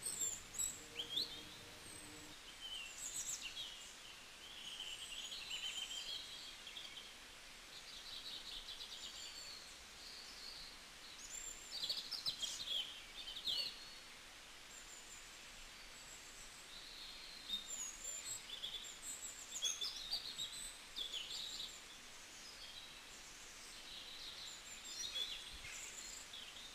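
Small birds chirping and twittering in short, scattered calls, faint against a low background hiss.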